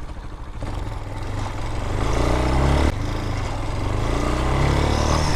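Vitacci Raven 250 dirt bike's air-cooled engine accelerating, its pitch rising steadily. About three seconds in it drops abruptly as the bike shifts up a gear, then climbs again.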